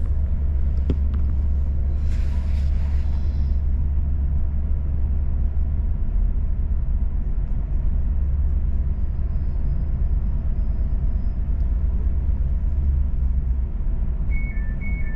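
Steady low rumble of a passenger train running, heard from inside the carriage. A repeating two-tone electronic beeping starts near the end.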